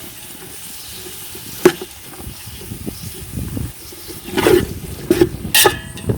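Freshly added sliced onions and green chillies frying in hot oil in a pot while being stirred, a steady low sizzle with a few sharp knocks and scrapes of the stirring spoon against the pan, the loudest about a second and a half in.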